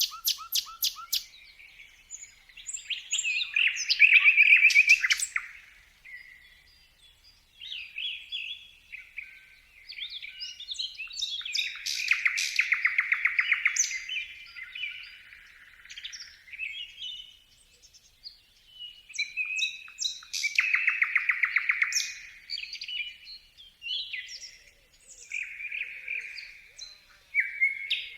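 Birdsong made of varied chirps and whistled notes, with loud, rapid trilled phrases that recur roughly every eight seconds and quieter chirping between them.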